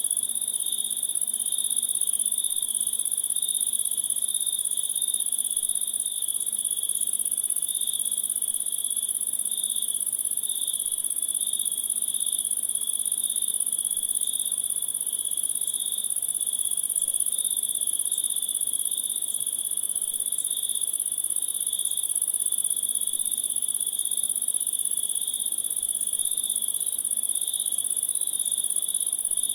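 A chorus of crickets chirping in an unbroken, steady trill, with a very high trill over a lower one that pulses slightly.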